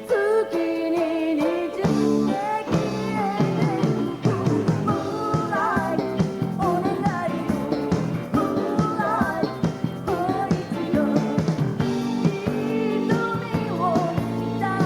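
Live pop-rock song: a woman singing the lead vocal in phrases over a full band with guitar.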